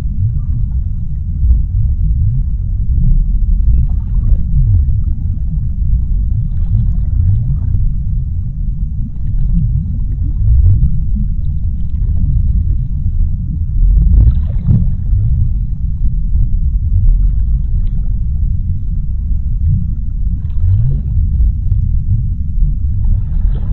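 Underwater sea-floor ambience: a steady deep rumble, full of short low gliding gurgles, with a couple of faint hissing swells.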